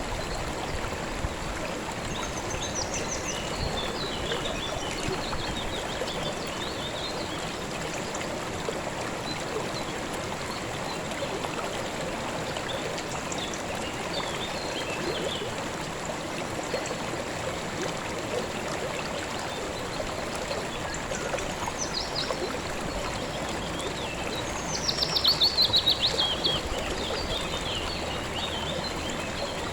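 A calm river flowing steadily, with birds chirping now and then above the water. Near the end a bird gives a loud, fast, falling trill.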